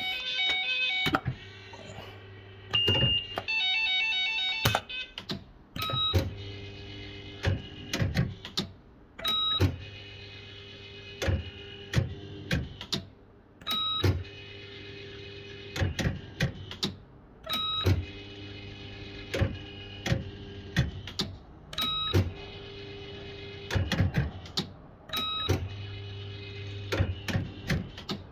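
Bell-Fruit FireCracker fruit machine being played, spin after spin about every two seconds. Each spin has the whirr of the reel motors, a clatter of clunks as the reels stop, and short electronic beeps. A few electronic tones sound at the start.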